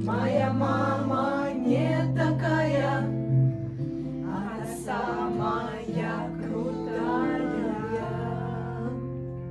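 Voices singing a refrain together over acoustic guitar chords held under the melody.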